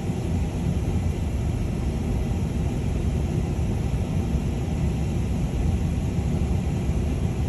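Car driving, heard from inside the cabin: a steady low rumble of engine and tyre noise on a snowy road.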